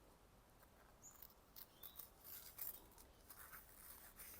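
Freshly sharpened Wüsthof kitchen knife slicing through cigarette paper, starting about a second in with faint, irregular scratchy crackling as the edge catches. The sound is very noisy: the edge, straight off the Tormek grinding wheel and not yet stropped, still cuts but drags.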